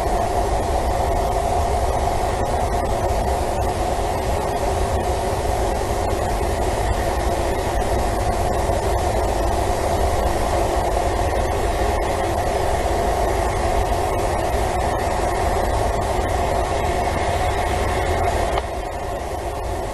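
Steady mechanical rumble with a constant hum, dropping slightly in level near the end.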